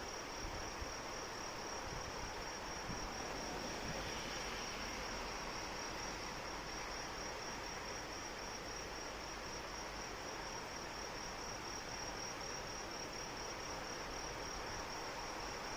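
Crickets trilling steadily in one unbroken high-pitched chirr over the even hiss of steady rainfall.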